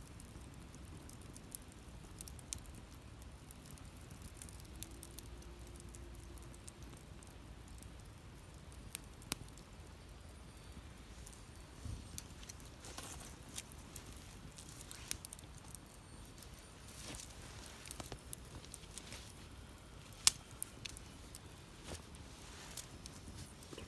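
Wood fire crackling in a fire pit, with sparse, irregular pops over a low steady rumble and one sharper pop late on.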